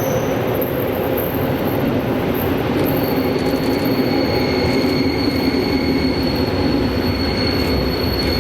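Electric train running on the rails, a steady loud rumble of wheels and running gear, with a thin high squeal that sets in about three seconds in and holds.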